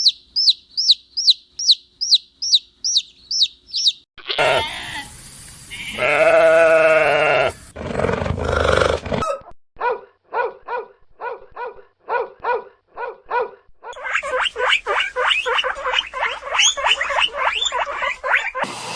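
A string of different animal calls edited back to back. First comes a quick run of high, falling chirps, about three a second. Then a wavering, pitched bleat-like call, followed by rows of short repeated calls that speed up near the end.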